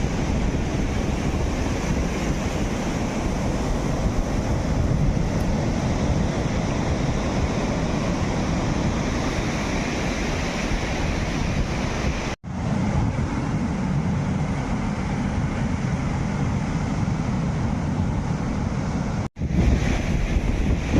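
Sea waves washing onto the shore, mixed with wind buffeting the microphone. The sound cuts out abruptly for an instant twice, about twelve and nineteen seconds in.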